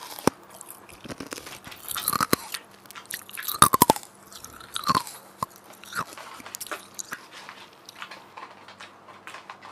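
Close-up chewing of McDonald's french fries: biting and mouth clicks and smacks in uneven clusters, densest a little past three seconds in and thinning toward the end.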